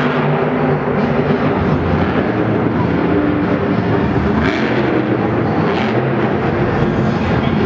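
Monster truck's supercharged V8 running loud, its pitch rising and falling as the throttle works.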